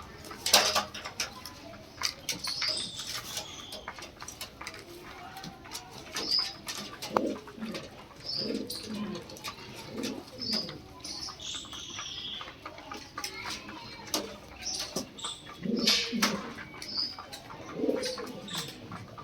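Lahore pigeons cooing repeatedly in low calls, mixed with short high chirps and scattered sharp clicks.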